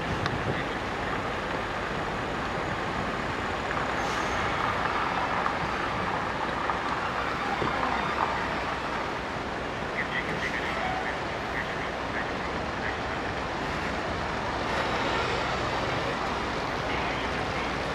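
Steady road traffic noise: engines and tyres of passing vehicles, including heavy ones, with a few faint brief high squeaks about two-thirds of the way through.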